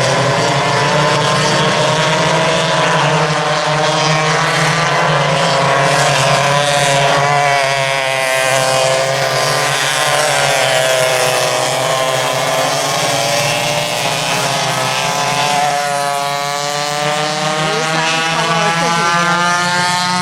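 Several vintage go-kart engines running hard in a race, their pitches overlapping and rising and falling as the karts accelerate, lift and pass. Near the end one engine's pitch climbs steadily.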